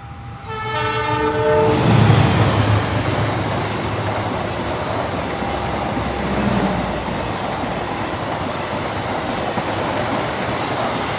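The Argo Parahyangan train's locomotive horn sounds once for about a second, then the train runs past at speed with a loud steady rush of wheels on the rails.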